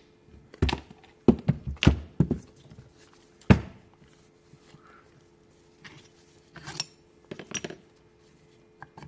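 Metal tools and starter-motor parts knocking and clinking during hand disassembly: a run of sharp knocks in the first few seconds, the loudest about three and a half seconds in, then a few lighter clinks near the end.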